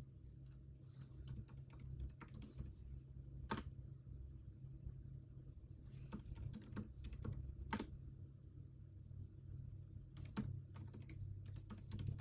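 Typing on a computer keyboard in short runs of keystrokes with pauses between them, over a steady low hum.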